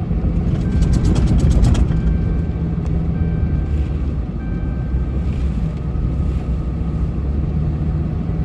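Vehicle engine running with a steady low drone, with a brief burst of rapid clicking about a second in.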